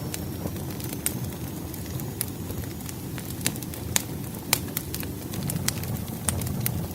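Firewood burning in a fireplace: a steady low rush of flame with irregular sharp crackles and pops, the loudest about four and four and a half seconds in.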